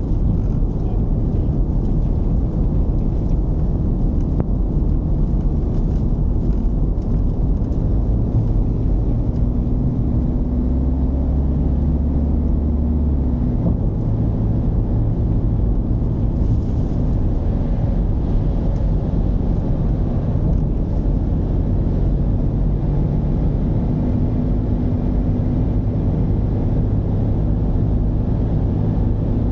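Mercedes-Benz V220's diesel engine running under way, a low drone with steady road rumble. The engine note strengthens for a few seconds about a third of the way in, then settles.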